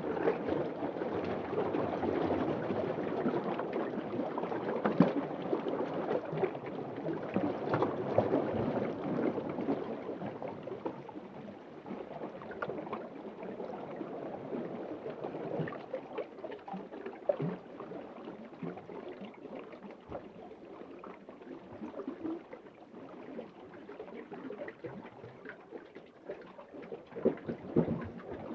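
Underwater ocean ambience: a continuous bubbling, gurgling wash with many small pops, fuller for the first ten seconds or so, then settling softer.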